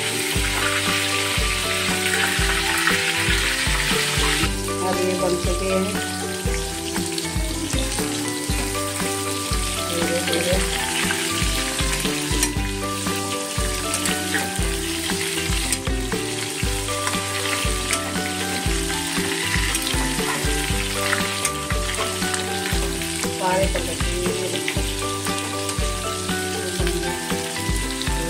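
Stuffed bitter gourds sizzling as they fry in oil in an aluminium kadhai, with a metal spoon turning them now and then; the sizzle is strongest for the first four seconds or so. Background music with a steady beat plays throughout.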